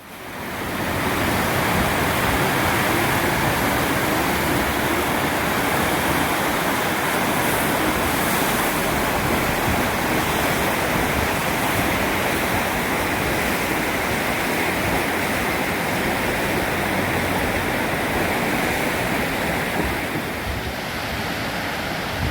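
Creek in flood, high water rushing steadily.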